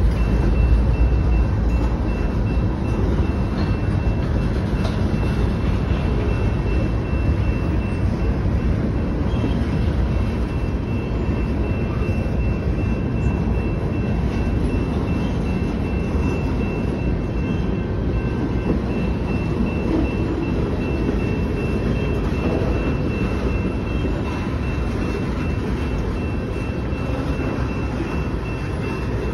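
Freight train rolling steadily past: covered hopper and tank cars rumbling over the rails, with a thin, steady high tone running through most of it.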